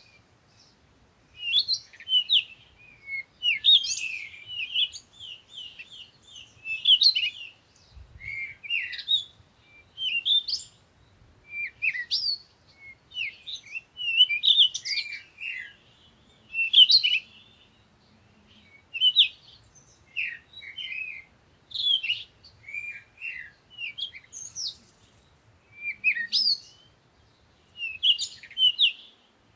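Small songbirds chirping and twittering in quick bursts of short, high notes, one cluster after another every second or two, with short pauses between.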